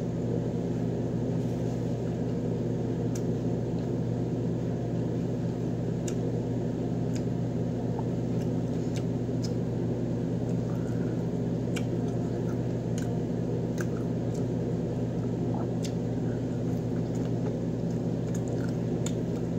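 A steady low hum from a running appliance fills the background, with scattered faint clicks and squishes of fried chicken being bitten and chewed by hand.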